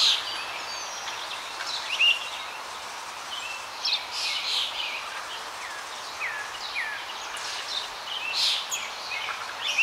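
Birds chirping and calling over a steady outdoor hiss: short, sharp call notes scattered every second or so, some sliding downward in pitch.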